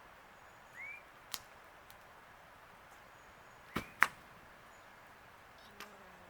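Campfire firewood popping: a few sharp single cracks, the loudest a close pair about four seconds in, over a faint steady hiss. A short rising chirp sounds about a second in.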